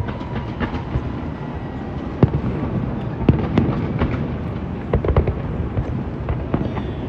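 Fireworks display: many sharp bangs at uneven intervals over a continuous low rumble of more distant bursts.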